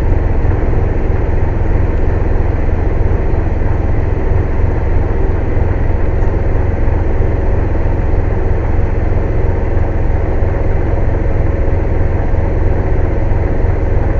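Loud, steady low drone of a heavy engine running at an even speed, without any change in pitch or level.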